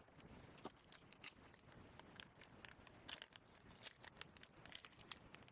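Faint, irregular clicks and rustles of basketball trading cards being handled, growing busier about halfway through.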